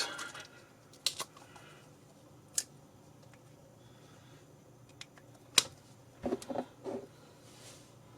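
Scattered sharp clicks and light taps from handling paint pots and mixing paint at the desk: a few single clicks, then a short run of taps near the end.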